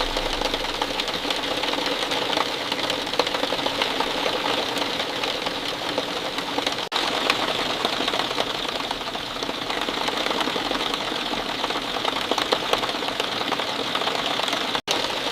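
Steady rain falling, a dense patter of countless fine drops with a bright hiss on top. It cuts out for an instant twice, about seven seconds in and near the end.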